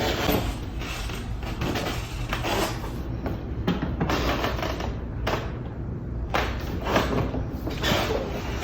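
Hand letterpress printing on a Washington hand press: a string of irregular creaking and scraping mechanical strokes as the press and its inking gear are worked.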